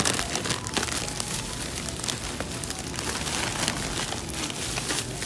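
Plastic shopping bag rustling and crinkling as groceries are handled and packed, with many small crackles.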